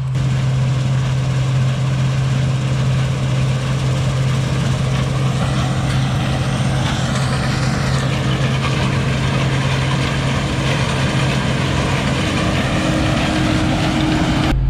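A large engine running at a steady drone, with a slight swell in its higher machine noise around the middle.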